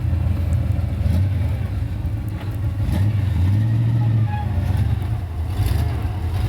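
Suburban's swapped engine running as the truck drives through snow, a steady low drone that swells and climbs a little in pitch about halfway through.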